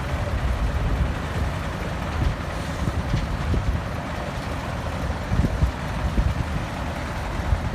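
Heavily loaded dump truck's diesel engine running steadily as it unloads, with irregular low gusts of wind on the microphone.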